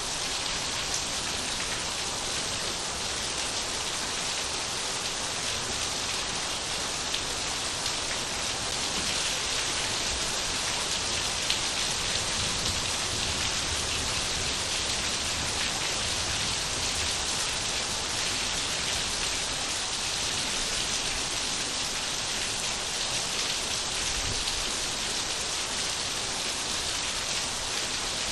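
Steady rain falling on surfaces, an even hiss of many drops with small individual patters.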